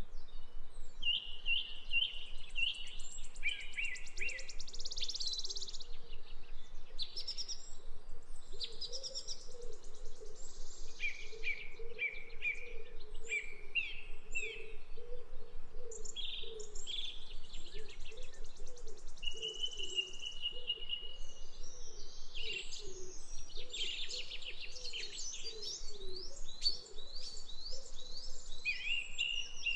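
Parrots chirping and chattering, short calls and buzzy notes coming one after another without a break.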